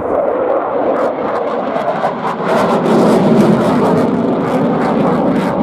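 Dassault Rafale fighter jet flying a display pass, its twin M88 turbofans making a loud, continuous jet noise with a ragged crackle through it.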